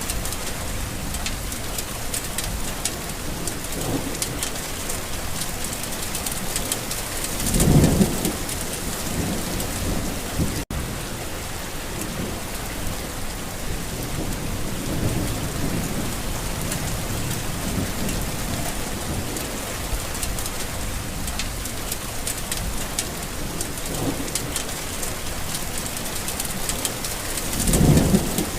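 Steady heavy rain falling, with rolls of thunder rumbling low: the two loudest about eight seconds in and near the end, and fainter ones between. The sound cuts out for a split second about ten seconds in.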